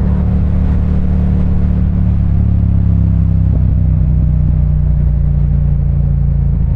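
Motorcycle engine running at steady low revs while riding, heard from the rider's helmet mic, with a slight shift in engine pitch about two seconds in.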